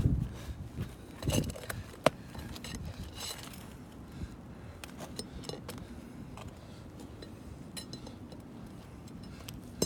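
Roof shingle repair work: light tool clinks and taps, a soft thump about a second in and a sharp click about two seconds in, then scattered faint ticks.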